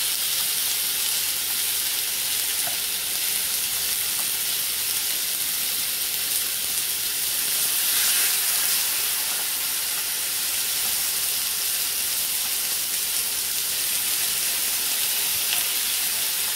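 Marinated chicken tenderloins sizzling steadily as they sear in a hot cast-iron skillet, with pieces being laid in and pushed around with a spoon. The sizzle swells a little about halfway through as another piece goes into the pan.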